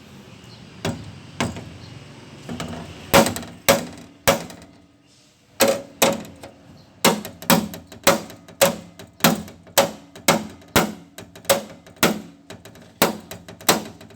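A hammer beating on sheet-metal body panel, about two blows a second with a short pause, each blow leaving a brief metallic ring: panel beating on the side of a Mitsubishi L300 van.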